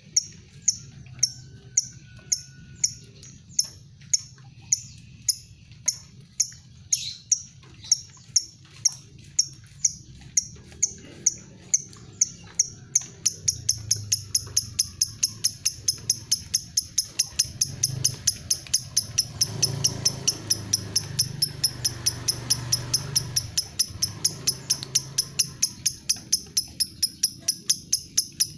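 Lovebird giving its 'ngetik' ticking call: sharp, high, clipped ticks repeated in a long train, about two or three a second at first, then speeding up to about four a second around the middle.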